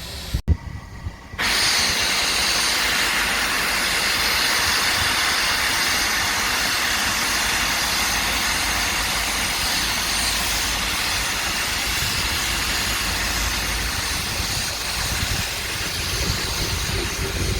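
Standing steam locomotive blowing off steam: a loud, steady hiss that starts suddenly about a second and a half in and holds, over a low rumble.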